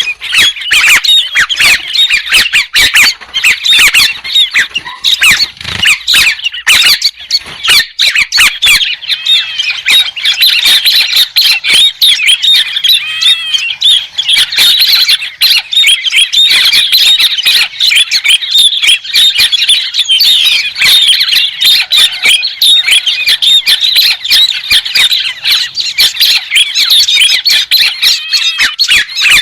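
White-crested laughingthrushes calling in a loud, dense chattering chorus of many overlapping squawky notes, with no let-up.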